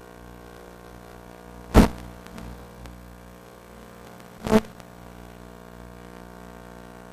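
Two sharp thumps about three seconds apart, the first the louder, over a steady faint electrical hum.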